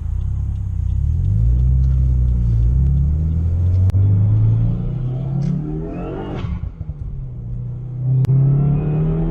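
Subaru WRX's turbocharged flat-four accelerating hard, revs climbing steadily for about six seconds. A rising whoosh from the intake and turbo blow-off valve comes as the revs drop for a shift, then the engine pulls again and a second whoosh comes at the end.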